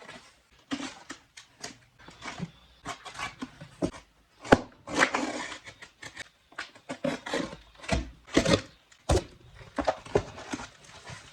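A large shipping package being opened by hand: irregular rustling, scraping and tearing of packaging, with a few sharp knocks and clicks.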